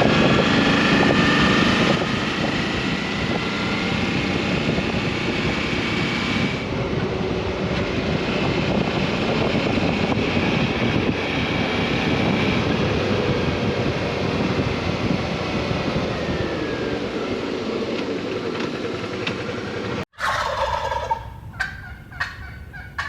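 Steady noise of the Suzuki V-Strom motorcycle riding along with wind on the microphone. After a cut about twenty seconds in, wild turkeys gobble in a few short calls.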